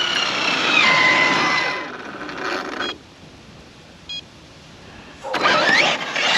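1/7-scale RC rally car driving past, its motor whine falling in pitch as it slows over the first three seconds, then going quiet. About five seconds in it comes back loud, with a rising whine as it accelerates again.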